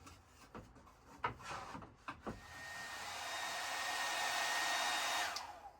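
A few light knocks, then a hair dryer is switched on about two and a half seconds in. It runs with a steady hiss and whine, heating old glue to loosen it, and is switched off near the end, its whine falling away.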